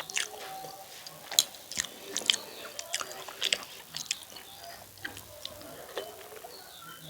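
Close-up mouth sounds of eating chicken curry and rice: chewing and biting, with a run of sharp wet smacks and clicks that come most thickly in the middle of the stretch and thin out towards the end.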